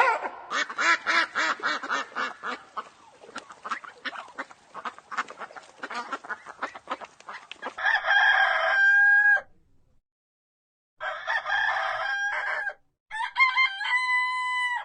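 Chickens clucking in quick repeated calls that fade off into short clicks, then a rooster crowing three times, each crow ending on a held note.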